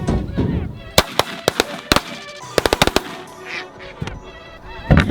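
A rapid volley of shotgun fire from several hunters, about a dozen shots in two quick clusters, with geese honking.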